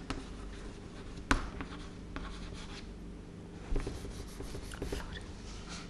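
Writing on a board: faint scratchy strokes, with a sharp tap a little over a second in and another softer one near four seconds.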